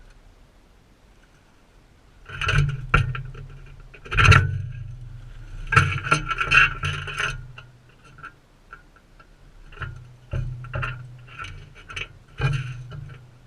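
Irregular clusters of close knocks, taps and scrapes, beginning about two seconds in, from crimson rosellas feeding right beside the camera.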